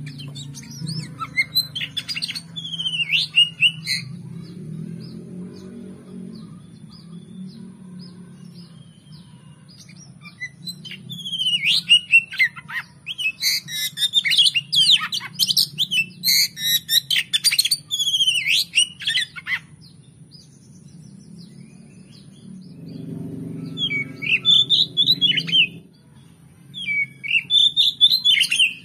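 Oriental magpie-robin (kacer) singing loud, varied whistles and rapid chattering phrases in three spells: briefly near the start, a long run through the middle, and again near the end. A low steady hum runs underneath.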